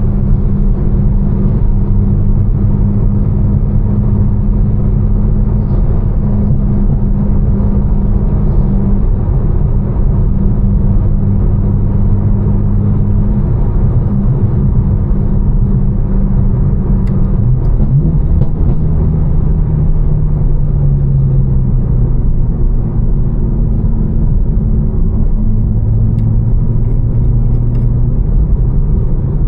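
Tuned BMW M4's twin-turbo inline-six, with catless downpipes and an aftermarket exhaust, droning steadily with road noise as heard inside the cabin while cruising. A little past the middle the engine note falls in pitch for a few seconds, then settles into a steady drone again.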